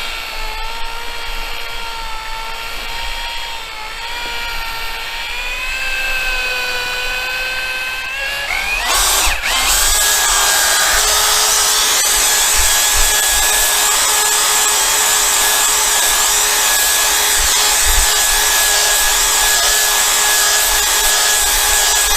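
Electric drill spinning a damp polishing pad loaded with cerium oxide compound over a plastic motorcycle windscreen. The motor runs with a steady whine that wavers slightly in pitch; about nine seconds in it turns louder and harsher, with a strong hiss of the pad on the screen.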